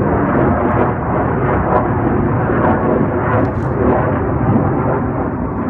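Loud, steady roar of jet aircraft engines flying over at an air show.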